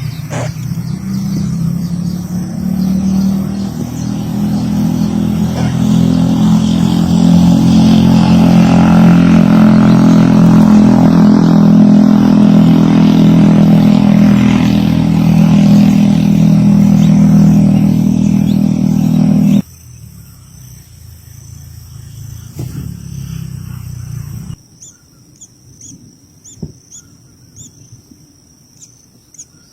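A motor engine running, growing louder over several seconds and then holding steady before cutting off suddenly. Faint, regularly repeating high chirps near the end.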